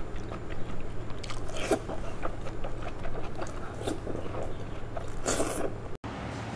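Close-miked eating of cooked tentacles: wet chewing and biting with many small mouth clicks and a few louder wet sucking sounds. The sound drops out for an instant near the end.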